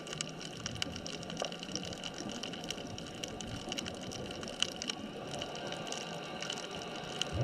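Underwater ambience at a sunken bridge-span reef: a steady hiss with many scattered sharp clicks and crackles.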